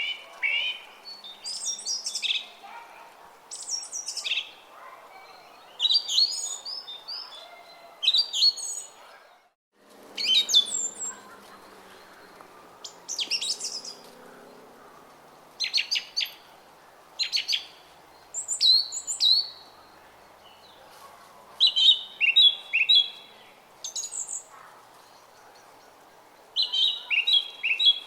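Small songbirds chirping and singing in short, quick, repeated phrases every second or two, over a faint steady murmur of running stream water. The sound cuts out briefly about ten seconds in.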